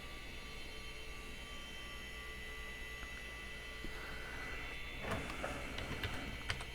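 Steady electrical hum from the running retro PC, with a few light clicks near the end.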